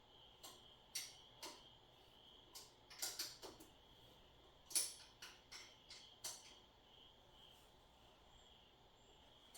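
A dozen or so sharp, irregular clicks and light knocks, as of things being handled, over a faint steady high-pitched trill.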